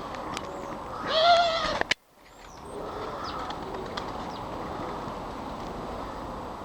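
Outdoor garden ambience with faint short bird chirps, and one loud drawn-out animal call about a second in that rises and falls in pitch, like a meow. Just after it the sound cuts out abruptly and fades back in to steady background.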